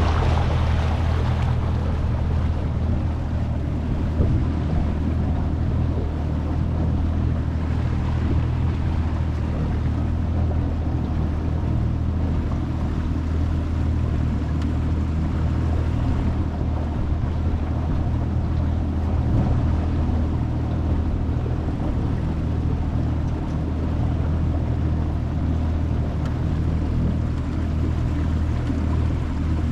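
25 hp Mercury four-stroke outboard running at a steady cruising speed, with water rushing along the hull and wind noise.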